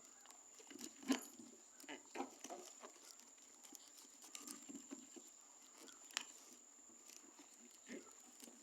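Faint, scattered soft clicks and squelches of a spoon stirring a thick shampoo and baby-powder slime mixture in a container, over a steady faint high-pitched whine.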